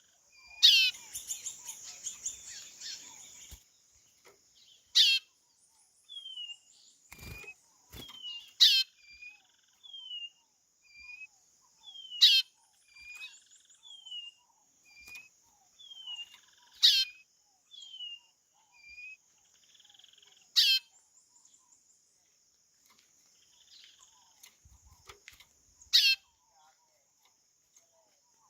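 White-bellied seedeater (chorão) calling: a short falling note repeated about once a second, with a louder, steeply falling whistle every four seconds or so.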